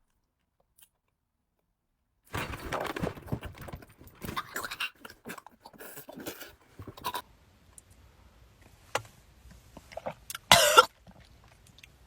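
A person coughing and chewing in irregular bursts, with scattered clicks, then one short loud vocal outburst about ten and a half seconds in.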